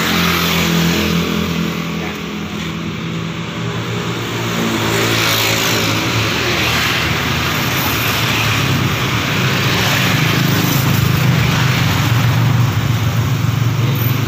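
Honda Freed's 1.5-litre four-cylinder engine idling steadily with the bonnet open. Vehicles pass on the road close by, and the sound gets louder in the second half.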